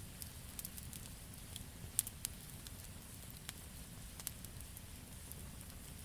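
Wood fire burning, with irregular sharp pops and crackles over a steady low rumble; the loudest pop comes about two seconds in.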